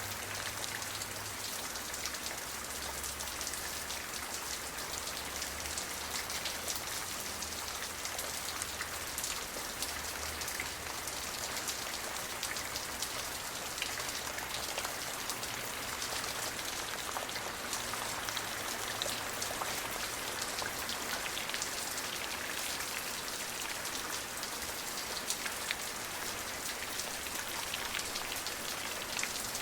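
Steady rain falling on a surface: a continuous hiss dotted with many individual drops ticking.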